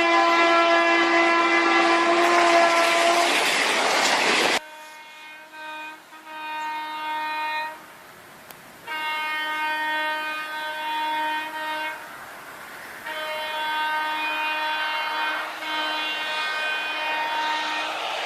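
Train horn sounding in long, steady blasts. For the first four seconds or so it sounds over the loud rumble of the moving train. The sound then cuts off abruptly, and the horn blasts repeat four more times with short gaps between them.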